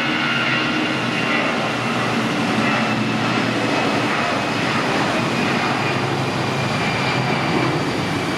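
Twin CFM56 turbofans of an Airbus A319 at takeoff thrust: a steady, loud rushing jet noise with a high fan whine that slowly falls in pitch.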